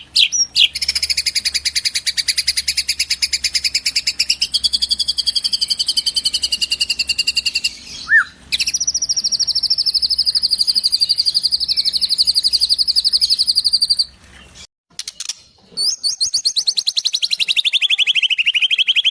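Bird calls in long, rapid, evenly pulsed trills lasting several seconds each, some sliding slowly down in pitch, with short breaks between them.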